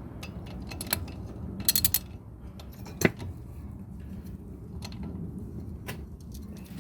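Metal hand tools being handled while working on a car's front brake caliper: scattered clicks and clinks, a short run of rapid clicks a little under two seconds in, and a sharper clank about three seconds in, over a low steady rumble.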